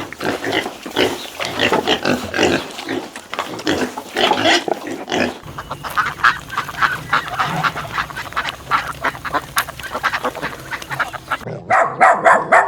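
Farm animals calling in rapid, repeated short calls, with the mix changing about five seconds in. Short, loud calls begin near the end.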